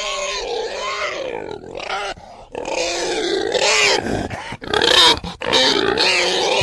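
Pigs grunting and squealing in a run of loud calls that bend up and down, with short breaks about two and four seconds in.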